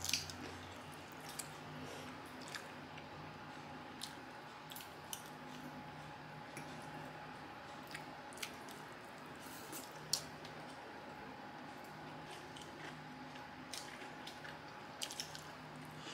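Close-up eating sounds: wet, squishy chewing and biting of saucy pork cutlet stewed in kimchi, with scattered small clicks. A faint steady hum runs underneath.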